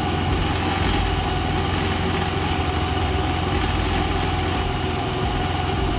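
Yamaha Ray ZR scooter engine idling steadily, freshly rebuilt with a new cylinder and piston.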